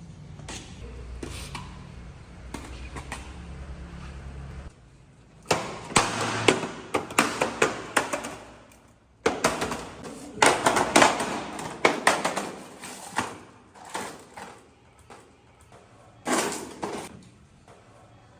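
A low steady rumble for about the first five seconds, then an abrupt change to clusters of sharp knocks, clatters and bumps, with the loudest runs near the middle and a last burst near the end.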